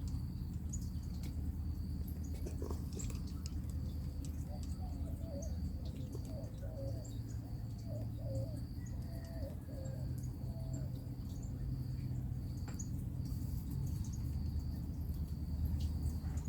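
Backyard birds calling faintly, with a short run of low warbling notes about five seconds in. Behind them runs a high, steady trill in repeated stretches and a low, steady hum.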